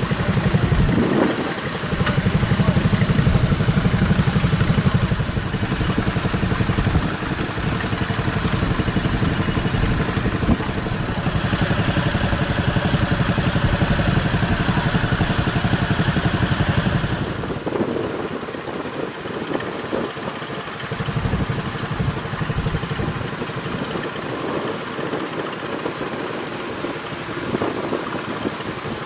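Tractor engine running steadily with a fast, even beat, loud at first, then dropping away and fading about two-thirds of the way through as the tractor draws off.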